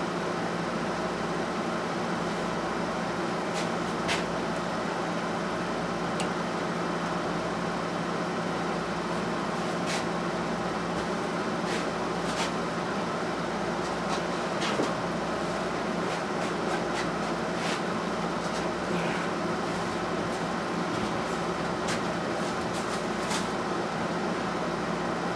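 A steady machine hum, like a fan or air-conditioning unit running, with a constant low tone. Scattered light clicks and clinks sound over it.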